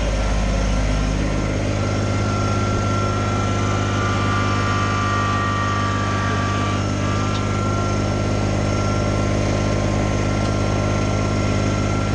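Kubota BX25 tractor's three-cylinder diesel engine running steadily as the tractor pulls ahead, with a thin higher whine over it in the middle.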